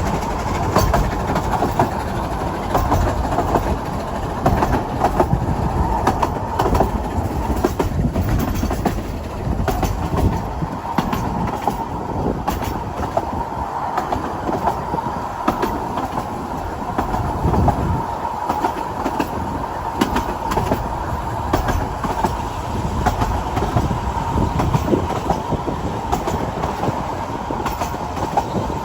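Narrow-gauge train running along the track, with a steady rumble of wheels on rail, scattered clicks over the rail joints and a faint thin squeal from the wheels.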